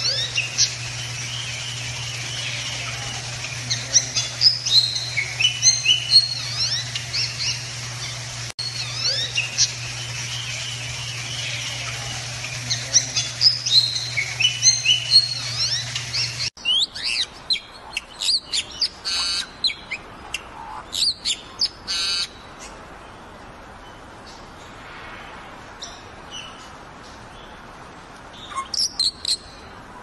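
Bali mynas calling: clusters of short chirps and whistles over a steady low hum for the first half. After a sudden cut about halfway, sharper, quicker runs of chirps follow with quiet gaps between them.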